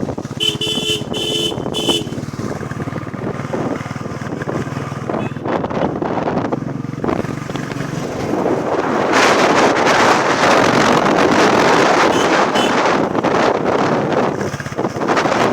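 Royal Enfield Classic 350's single-cylinder engine running on the move, with a horn sounding three short toots in the first two seconds. Wind rushing over the microphone grows loud from about halfway through.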